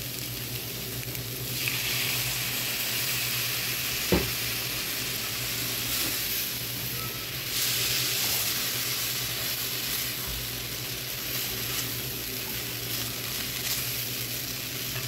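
Shredded chicken and vegetable filling sizzling in a hot nonstick frying pan as milk is stirred in with a silicone spatula. The sizzle swells twice, and the spatula knocks once on the pan about four seconds in.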